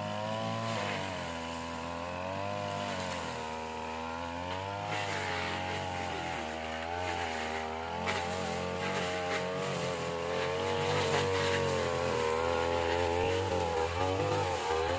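Small petrol engine of a grass-cutting machine running, its pitch rising and falling every second or two as the load changes while it cuts.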